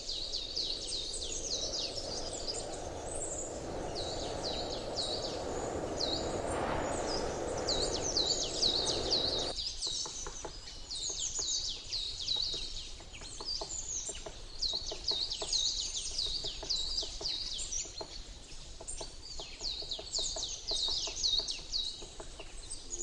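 Many small birds chirping continuously in quick, high, downward-sweeping calls. Under them a rushing noise builds over the first several seconds, then cuts off suddenly about nine and a half seconds in.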